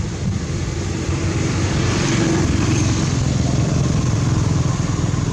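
A motor vehicle engine running close by, a steady pulsing drone that gets louder about two seconds in.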